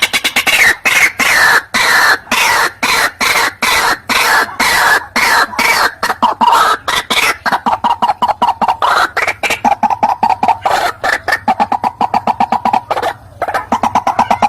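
White-breasted waterhen calling: a loud, fast run of harsh repeated notes, sliding down in pitch in places and settling into a steadier, evenly repeated note in the second half.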